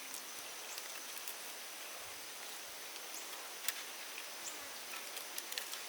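Rural field ambience: a steady high hiss of insects with scattered crisp clicks and rustles throughout.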